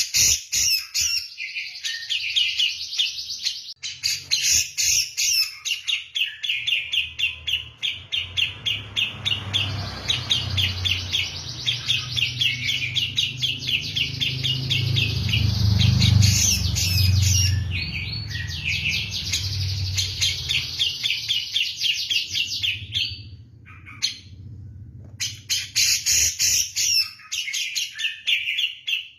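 Javan grey-cheeked bulbul (cucak jenggot) singing non-stop in long, rapid runs of sharp chattering notes, in the kapas-tembak style, with a short break about four-fifths of the way through. A low rumble runs under the song through the middle part.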